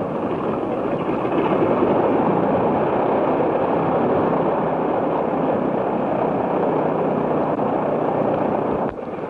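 Propeller airplane engine running steadily, a little louder over the first couple of seconds, then cut off abruptly near the end.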